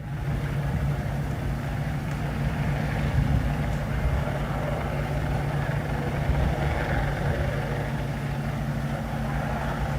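A steady engine hum with a low rumble and hiss, running evenly without change.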